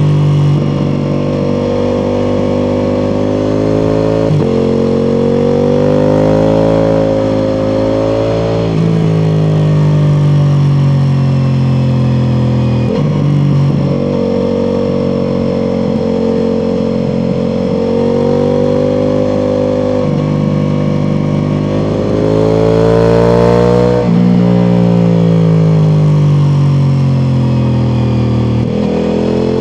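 Ducati Multistrada V4 Pikes Peak's V4 engine through its Akrapovič exhaust, pulling and easing off through the gears on a winding road. The pitch rises and falls continuously, with a sudden jump at each gear change, about every four to five seconds.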